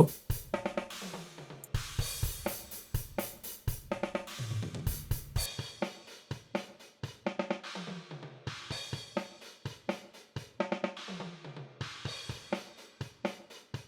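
DrumGizmo virtual drum kit playing back a steady groove, the reverb-processed room and overhead bleed tracks of the mix.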